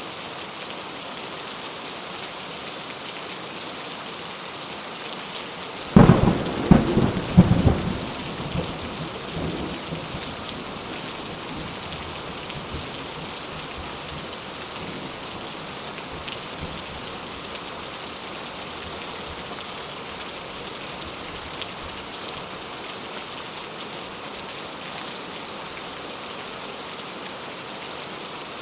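Steady rain, with a sharp clap of thunder about six seconds in: several cracks within two seconds that rumble away over the next few seconds.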